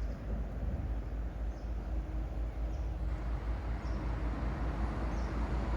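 Steady rumbling outdoor noise, with faint high chirps repeating about once a second.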